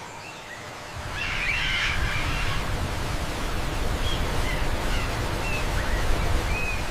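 Storm wind blowing steadily, growing louder about a second in, with a few faint short chirping calls above it.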